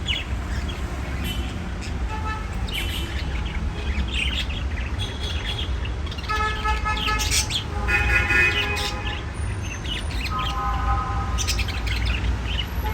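Budgies chirping and chattering, with short chirps and warbled notes throughout, over a steady low rumble.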